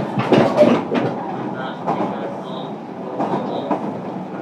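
Inside a JR Kyushu 305 series electric train, heard from the passenger cabin of a motor car: the train running along with a steady rumble, and its wheels clacking over rail joints several times in the first second or so.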